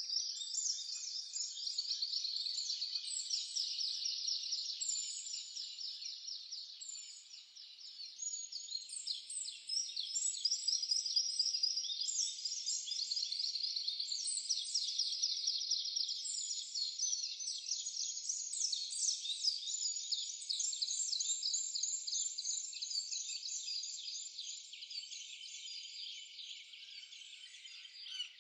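Dense, continuous high-pitched chirping of small garden birds, many rapid calls overlapping, briefly thinner about eight seconds in.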